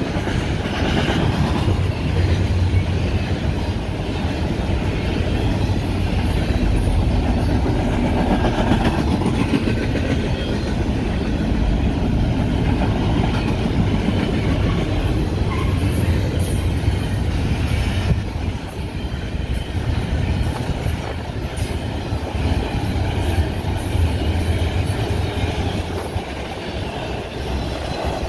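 Double-stack intermodal well cars rolling past on the rails: a steady, loud rumble of steel wheels on track with scattered sharp clicks and clatter.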